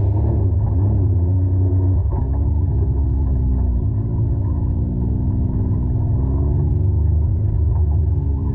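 Side-by-side UTV engine running at low, fairly steady revs, its pitch wavering slightly up and down over a heavy low rumble. The sound is muffled, with little high end.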